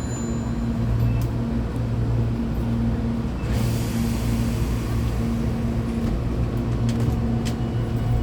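Hankyu 8200/8000-series electric train running at speed, heard from inside the car: a steady low hum with wheel-on-rail rumble. About three and a half seconds in, a high hiss comes in and stays.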